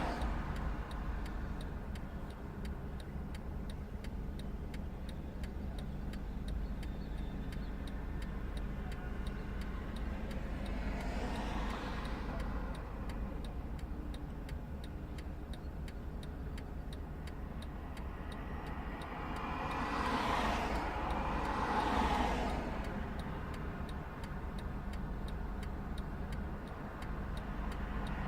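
A steady engine rumble with a fast, regular ticking running under it. Vehicles pass by several times, each rising and fading.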